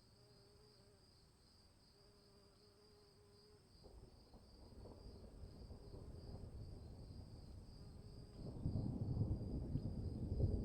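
Insects chirring in a steady, pulsing high-pitched chorus, with a rushing noise of rain that rises about four seconds in and swells louder near the end.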